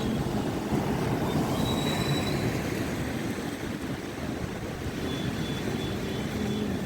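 Sea waves surging in strong monsoon wind, with the wind buffeting the microphone: a steady, low, rumbling rush without pauses.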